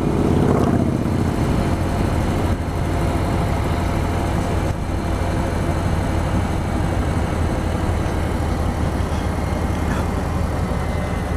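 Harley-Davidson Milwaukee-Eight V-twin engine running steadily while riding, under a continuous rush of wind and road noise.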